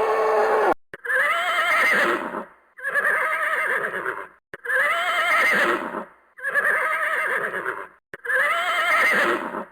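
Horse whinnying: the same quavering neigh repeats about five times, one roughly every two seconds, after a shorter call that ends under a second in.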